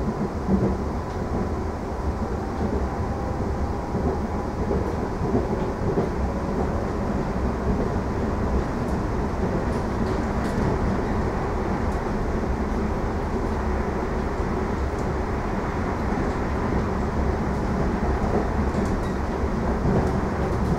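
Steady running noise inside a moving commuter train carriage: a continuous rumble of wheels on rails with a faint steady whine.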